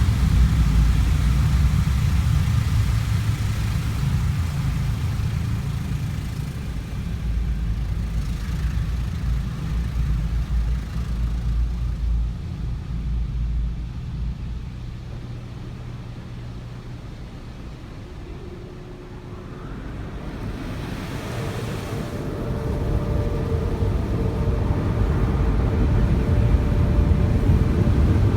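Automatic car wash machinery working over a car, heard from inside the cabin: a deep rumble that fades to a quieter stretch around the middle, then builds again with a steady hum toward the end.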